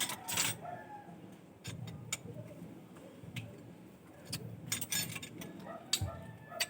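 Scattered light metallic clinks and taps, like hand tools and small engine parts being handled, over a low background hum.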